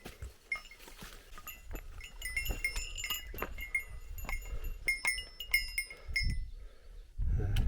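Small metal bell, a hiker's bear bell, jingling in quick irregular tinkles with the walker's steps, over footfalls and pack rustle. A louder low rumble comes in near the end.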